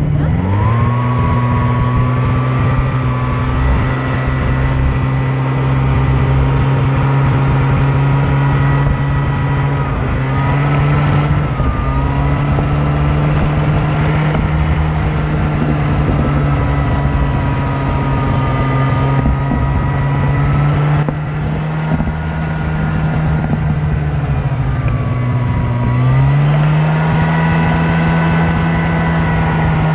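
A snowmobile engine running under throttle at a mostly steady pitch. It revs up at the start, eases off briefly twice (about a third of the way in and again near the end), and climbs back up each time.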